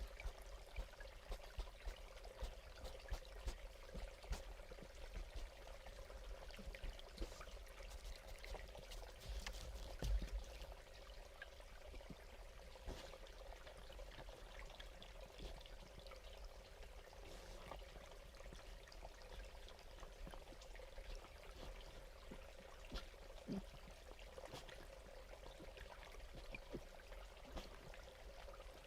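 Faint trickling water, with scattered light ticks and one louder tick about ten seconds in, over a steady low hum.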